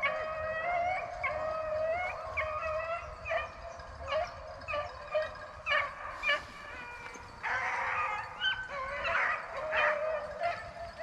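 A pack of rabbit-hunting hounds baying together while running a rabbit, several dogs howling and yelping at once. The chorus thins to scattered single cries midway, then swells again about three quarters of the way through.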